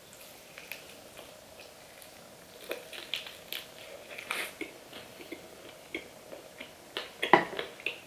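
Biting and chewing crispy-skinned fried chicken: irregular crunches and mouth clicks, with the loudest crunch about seven seconds in.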